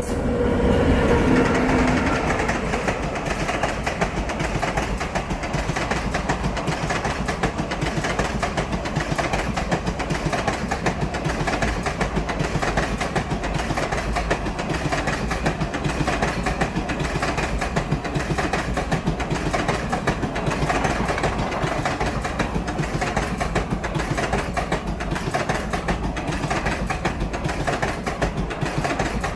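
A train running on the rails: a steady rumble with a fast, dense rattle of wheels and running gear, a little louder for the first two seconds.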